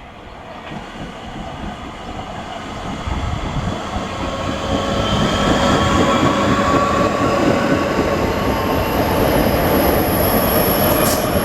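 A Class 465 Networker electric multiple unit pulling out and running past. It grows louder over the first five seconds or so and then stays loud, with steady electric motor whine over the rumble of the wheels.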